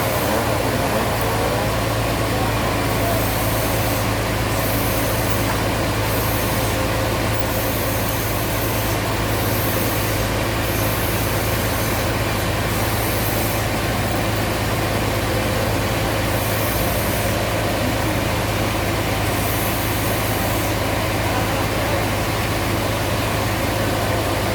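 Sawmill machinery running steadily, a loud, even drone with a strong low hum.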